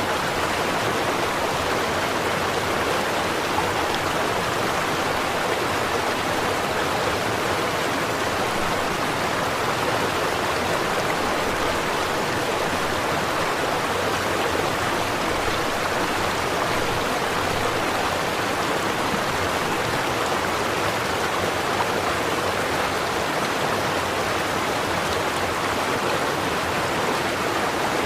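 A stream of running water flowing over rocks, a steady, even rush without pauses.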